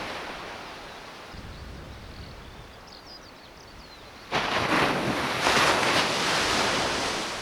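Surf on a beach: the wash of a wave fades out, then about four seconds in a new wave breaks with a sudden loud rush that slowly eases.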